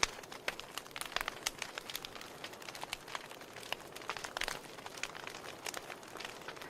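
Wood fire crackling in a fireplace: a steady soft hiss with many irregular sharp pops and snaps from the burning logs.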